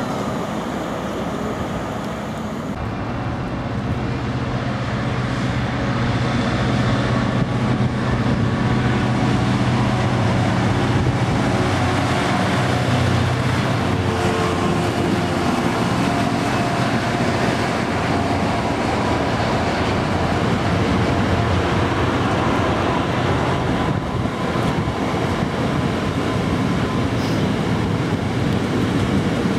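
Trains running through the station. First an HST (InterCity 125) diesel power car passes with a steady low engine hum. Then a long train of Freightliner coal hopper wagons rolls past at speed with continuous wheel-on-rail noise.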